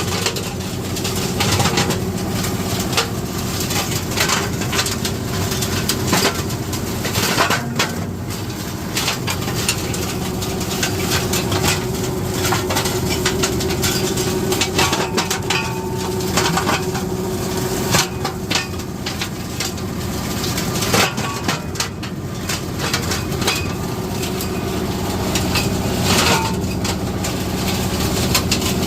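PTO-driven flail mower behind a 50 hp tractor, running steadily while it shreds citrus prunings, with frequent irregular cracks and snaps as branches are broken up by the flails.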